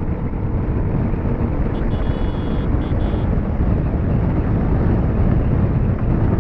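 TVS Apache RTR 310's single-cylinder engine running at highway speed, mostly buried under steady wind rush on the helmet or action-camera microphone.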